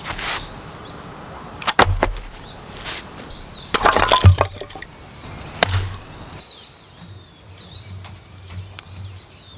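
Dry firewood snapping and cracking: a sharp crack about two seconds in, a loud cluster of cracks around four seconds, and one more crack about a second later. Faint bird calls follow in the quieter second half.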